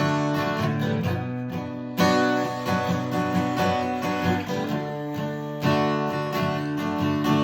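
Instrumental break in a song: acoustic guitar strumming sustained chords, with a new chord struck about two seconds in and again near six seconds.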